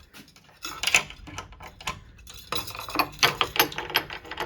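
Repeated sharp clicks and light metallic rattles of something stiff being worked open by hand, in an uneven cluster about a second in and a busier run in the second half.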